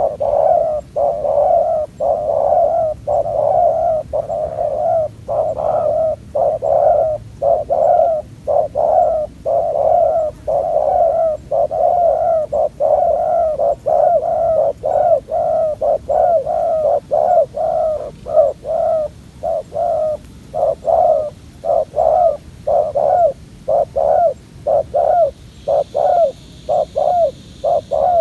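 Spotted dove cooing over and over in short, low repeated notes, a young dove's strong, fierce cooing.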